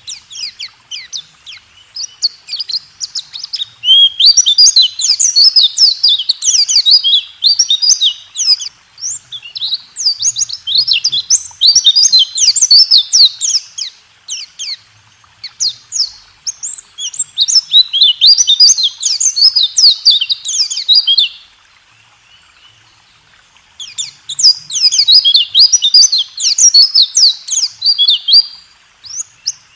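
Pleci (white-eye) singing a fast, rolling 'rool tembak' song of rapid high chirps and trills, the kind of song used as masteran to teach captive birds. It comes in long dense phrases broken by short pauses, the longest about two-thirds of the way through.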